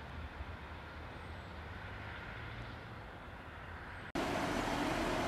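Faint low rumble of a distant diesel train approaching along the line. A little after four seconds it cuts abruptly to the much louder, steady running of a diesel multiple unit, a Class 158, standing at the platform.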